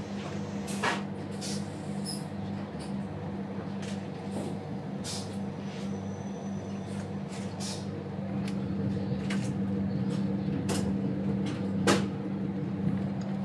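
Cabin of a diesel passenger train on the move: a steady low engine drone with scattered sharp clicks and knocks from the carriage, the sharpest about twelve seconds in. The drone grows a little louder in the second half as the train gathers speed.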